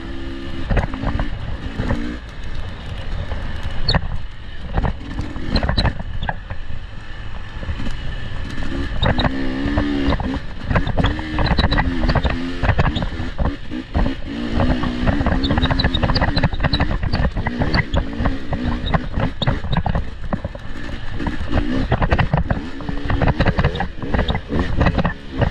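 Off-road vehicle engine running on a rough trail, its pitch rising and falling with the throttle, with frequent knocks and jolts from the bumpy ground.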